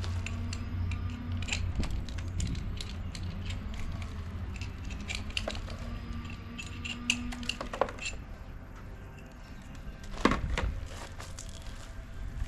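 Scattered light clicks and knocks of work handling, with the loudest knock about ten seconds in, over a low steady hum.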